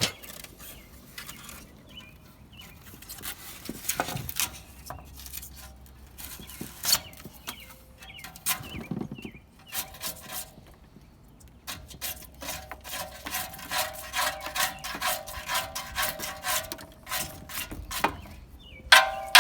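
Scattered clicks, knocks and light clinks from handling a rusted RV water heater. From about eight seconds in, a short pitched sound repeats over and over, coming faster and louder near the end.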